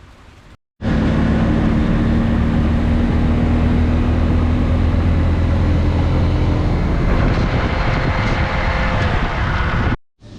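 A vehicle engine running loud and steady, with a constant low hum and no revving.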